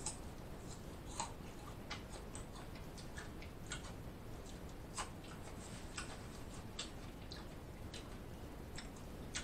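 Close-miked mouth sounds of a man chewing small bites of food: faint, irregular wet clicks and light crunches, a few a second, over quiet room hiss.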